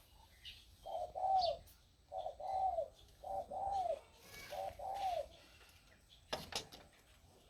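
A dove cooing four times, each coo a short note followed by a longer arched note, about one every second. A brief sharp clatter sounds near the end.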